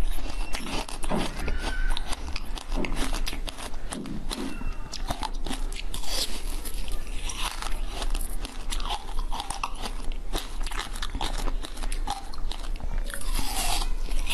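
A person biting into and chewing crunchy food, a dense run of crisp crackling crunches with no pause.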